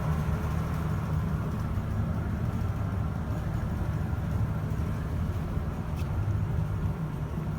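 Steady low rumble of background noise, with a single faint click about six seconds in.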